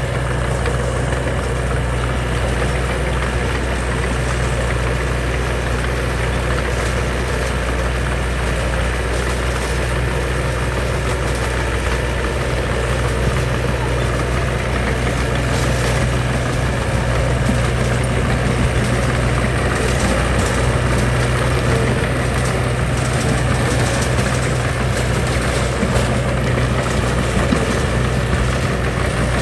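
Heavy construction machine's diesel engine running steadily at low, even revs with a deep hum, without changes in pitch.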